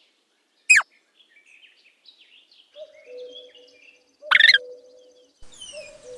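Gopher calls: two loud, sharp whistle-like calls, the first sweeping steeply downward about a second in, the second a bit past four seconds. Softer chirps sound between them.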